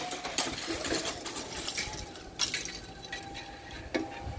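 A train passing over the level crossing: quick, irregular metallic clinks and rattles from the wheels and wagons on the rails, over a faint steady tone.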